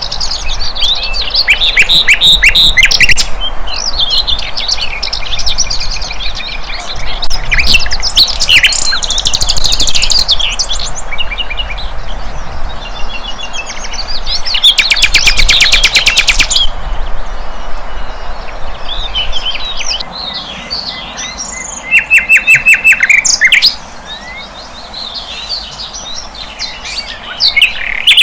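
Sikatan londo flycatcher singing a loud, varied song of quick chirps, short whistles and rapid rattling trills, phrase after phrase with hardly a pause.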